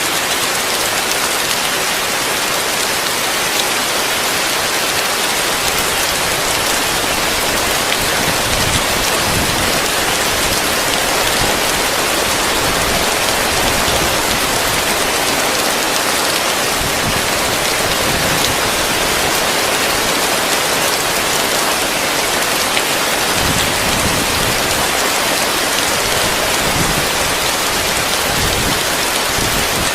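Heavy rain falling on a roof: a steady, dense hiss of drops that never lets up.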